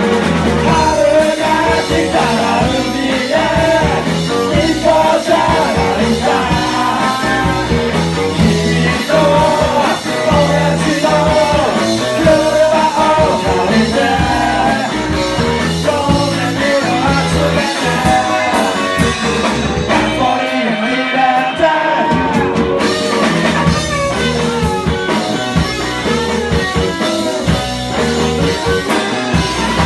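Rock band playing live, with a sung vocal over electric guitar, bass and drums. About two-thirds of the way through, the drums and low end drop out for a couple of seconds before the full band comes back in.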